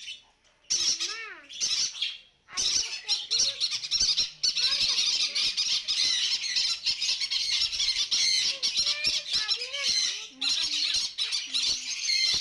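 A crowd of caged parrots squawking and screeching all at once, a dense chorus of overlapping shrill calls with a few lower whistling calls. It drops out briefly twice in the first few seconds, then runs on without a break.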